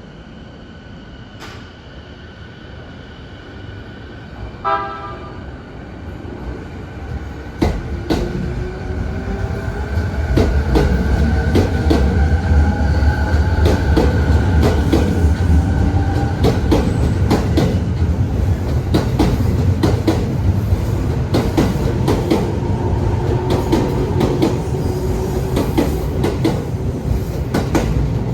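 JR 209 series electric commuter train running through Chiba Station, getting louder over the first ten seconds, then steady. Repeated sharp clicks from the wheels over rail joints and a motor whine rising in pitch run over a deep rumble. There is a short horn-like tone about five seconds in.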